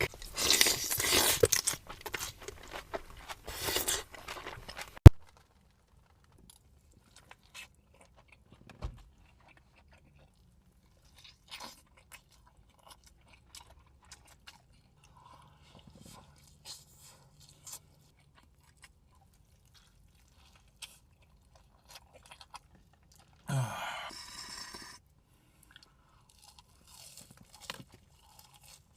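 Close-miked crunching and chewing of a big mouthful of food, loud for the first five seconds and then cutting off abruptly. After that come only faint, scattered mouth clicks, with another short burst of crunching about 23 seconds in.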